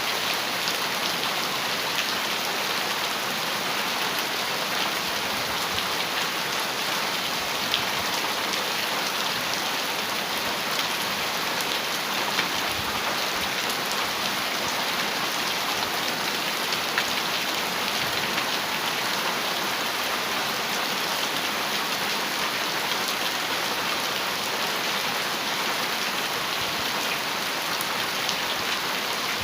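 Heavy rain falling steadily on a metal roof: a dense, even patter of drops with a few louder single drop hits scattered through.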